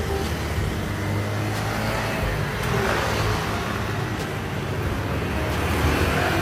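Road traffic: motor vehicles running past, with one swelling by about halfway through and another near the end, over a steady low engine hum.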